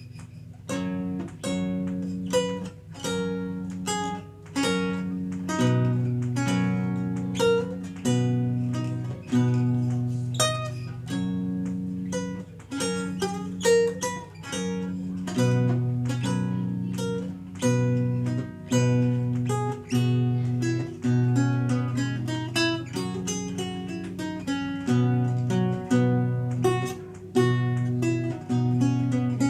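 Renaissance lute played solo: plucked melody notes and chords over low bass notes in a steady rhythm, each note ringing briefly after it is picked.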